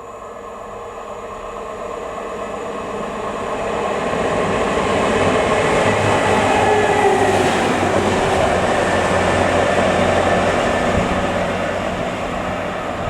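A train passing at speed: its noise builds to a loud peak mid-way and then fades. A steady whine runs through it and drops in pitch as the train goes by.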